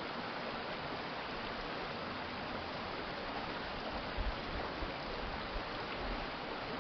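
Water of a shallow urban stream flowing steadily, an even rushing babble. A few brief low rumbles come through about four to six seconds in.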